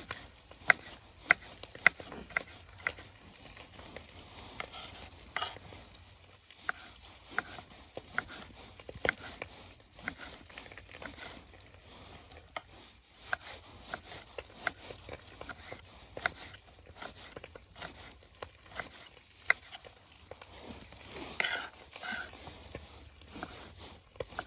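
Knife dicing green bell peppers on a cutting board in irregular sharp taps, over the steady sizzle of ground beef browning in a cast-iron Dutch oven.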